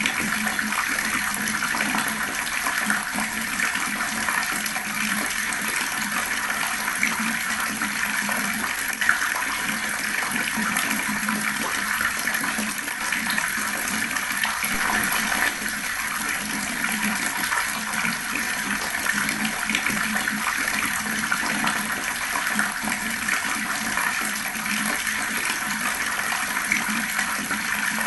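Water flowing fast in a steady, unbroken rush.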